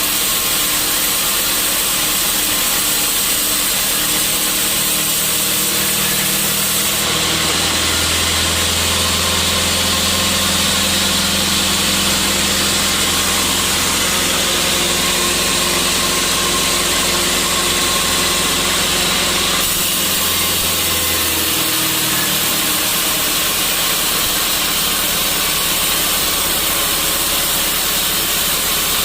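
Sawmill saw running steadily while sawing a teak stump. For a stretch in the middle, from about a quarter of the way in to about two thirds, the sound grows harsher and brighter over a deeper hum, then settles back to the steady running sound.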